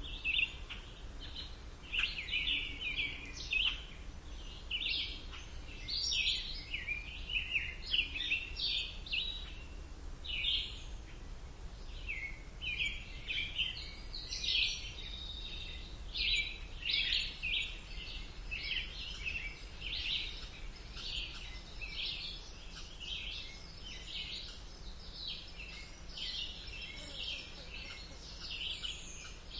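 Songbirds singing and chirping in a dense, continuous chorus of short high notes, over a low steady background rumble.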